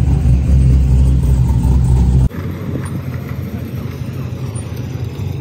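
Car engine running, a loud steady low rumble, cut off abruptly about two seconds in. A quieter steady engine-and-traffic rumble follows.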